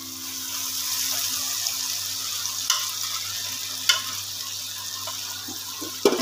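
Onion-tomato masala sizzling as it fries in oil in a pot, stirred with a spatula. There is a steady frying hiss, with two sharp clicks partway through and a louder knock near the end.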